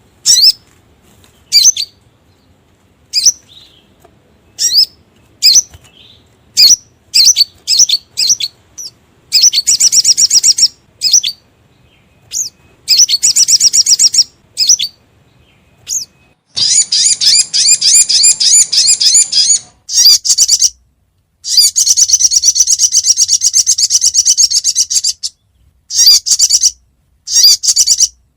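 Recorded lure call of a sogon (sogok ontong), a spiderhunter: sharp, high single chirps spaced about a second apart, breaking into fast trills. The trills grow longer toward the middle, one lasting about three seconds and another about four, and single chirps return near the end.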